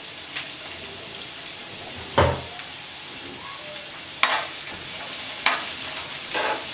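Chopped onions sizzling in hot oil in a nonstick frying pan, a steady frying hiss. A sharp knock about two seconds in, then a few sharper clatters in the second half as the onions are stirred in the pan.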